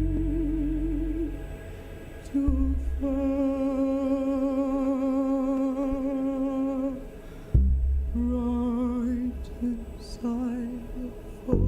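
A woman singing long, held wordless notes with a slow wavering vibrato in ritual-industrial music. A deep low drone cuts in suddenly three times beneath her: about two and a half seconds in, again after seven and a half seconds, and at the very end.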